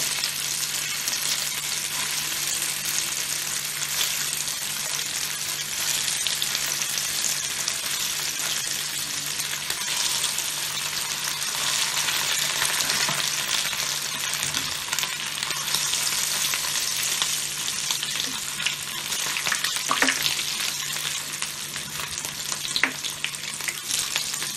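Boiled potatoes sizzling steadily as they shallow-fry in hot oil in a pan over low heat. A few sharp clicks in the last few seconds, the loudest about 20 seconds in, as a metal slotted spoon knocks against the pan while turning them.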